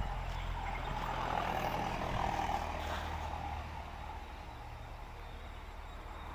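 Diesel truck engine running steadily, louder in the first half and easing off after about three and a half seconds.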